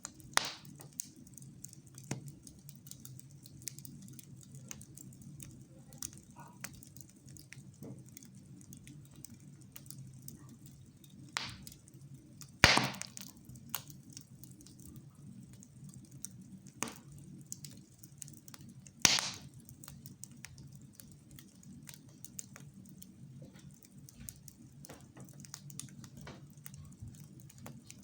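Wood fire crackling in a fireplace: irregular sharp pops and snaps, the loudest a little under halfway through and about two-thirds through, over a low steady hum.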